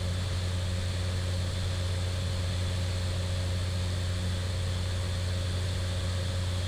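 Cessna 208 Caravan's turboprop engine and propeller running with a steady low drone, heard inside the cockpit.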